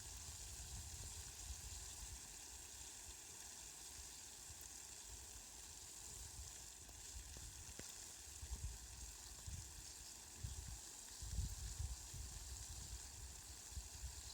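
Steady, faint hiss of falling rain. A low rumble comes and goes beneath it, more often in the second half.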